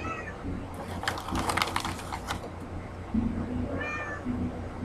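Crisp crunching as poppy seed snack sticks are bitten and chewed, a burst of crackles lasting about a second and a half. A cat meows at the start and again near the end.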